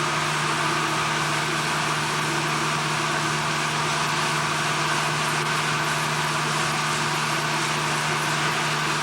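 Steady, unbroken drone of heavy machinery running: an even rushing noise with a constant low hum under it.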